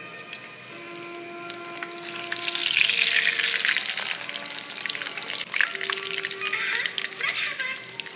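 Breaded patties frying in shallow oil in a pan: a steady sizzle full of crackling pops, which grows louder around the middle as one patty is turned with metal tongs. Faint music with long held notes runs underneath.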